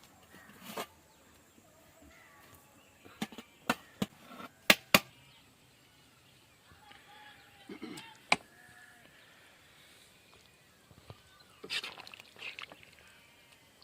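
A few sharp clicks and knocks of kitchen utensils and cooking vessels being handled, several in quick succession about four to five seconds in and another near eight seconds, with faint bird calls behind.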